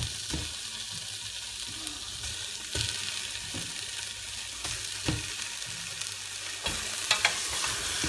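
Sliced onions and diced carrots frying in olive oil in a stainless steel pot, a steady sizzle, as skinned chicken drumsticks are laid in to brown. A few short knocks and clicks come as the pieces go in and are pushed around, sharpest near the end.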